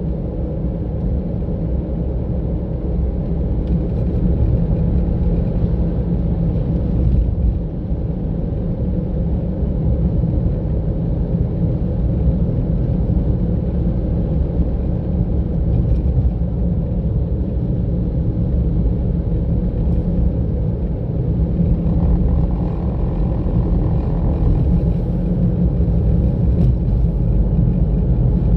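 Car driving along a road: steady low rumble of engine and tyre noise picked up by the car-mounted camera.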